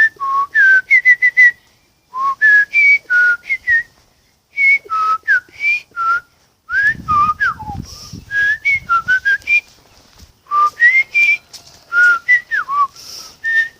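A person mouth-whistling an imitation of a sparrow's song: quick runs of short chirping notes that slide up and down, repeated in phrases with brief pauses between them.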